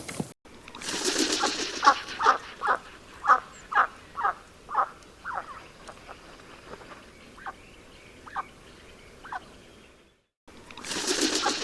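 A bird calling: a run of short calls, each falling in pitch, about two a second, then three more spaced about a second apart. A brief rustling noise comes just before the calls start.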